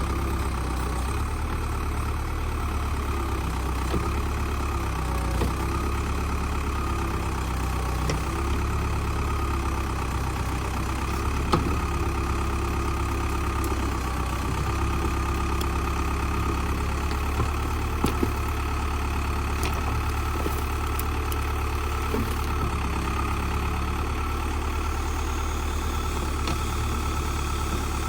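Old tractor backhoe's engine running steadily, with its pitch shifting slightly as it works. A few sharp knocks about halfway through and again later.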